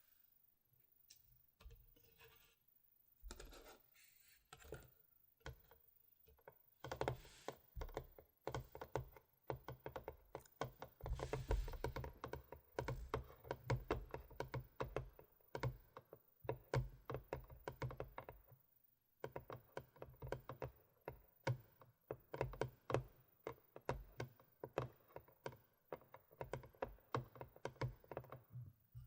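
Fingernails tapping and clicking on the GoPro Hero 4 Silver's plastic packaging, quick irregular taps several a second, with short pauses around a quarter of the way in and again past halfway.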